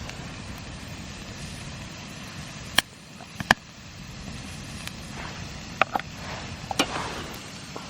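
Several short sharp clicks or knocks, spread irregularly, over a steady low background rumble.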